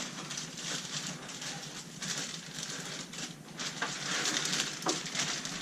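Plastic packaging crinkling and rustling, with irregular small crackles, as the bag around a thin plastic RC car body is opened and handled.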